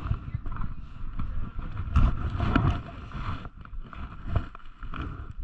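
Muffled, irregular rubbing and bumping noise of a chest-mounted GoPro in its waterproof housing as the wearer moves, with the loudest knocks about two seconds in.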